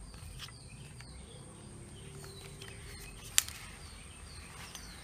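Outdoor ambience of short falling bird chirps over a steady high insect drone, with one sharp click about three and a half seconds in.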